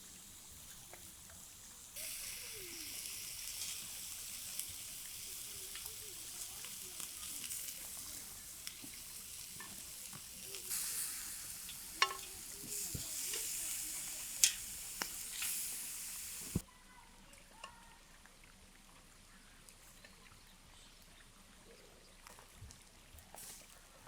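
Food sizzling over a campfire: a steady high hiss with scattered sharp pops and crackles. It starts abruptly about two seconds in and cuts off abruptly past the middle, leaving a quieter stretch with a few faint clicks.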